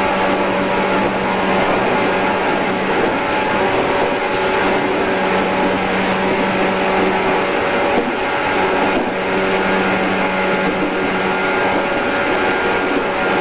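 JR East 113 series electric train running at a steady speed between stations: a steady motor and gear hum with several higher steady tones over the rumble of wheels on the rails. The lowest hum fades for a moment about eight seconds in, then returns.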